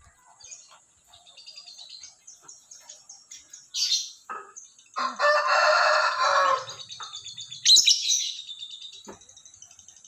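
Lovebird chirping in quick, high, ticking calls, with two sharp loud shrieks, one about four seconds in and one near eight seconds. Around five seconds in, a rooster crows once, lower and fuller than the lovebird, for about a second and a half.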